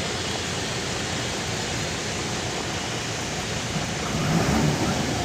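Tata Signa dump truck unloading 12 mm crushed stone: a steady rushing noise, with a low rumble growing louder near the end.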